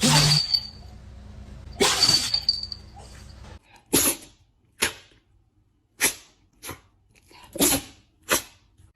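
Dogs sneezing: two loud sneezes about two seconds apart, then a quick run of six shorter, sharp sneezes.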